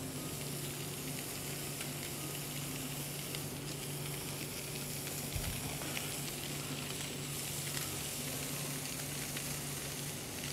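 Fish fillets frying in hot fat in a stainless steel skillet: a steady sizzle with small scattered pops, over a faint low hum.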